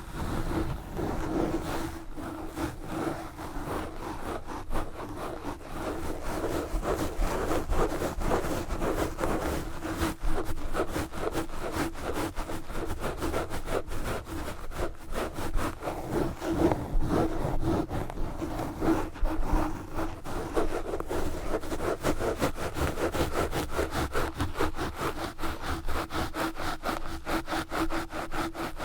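Knitted yarn gloves scratching and rubbing fast and aggressively straight on a microphone, a dense run of rapid scratchy strokes with a low scraping band.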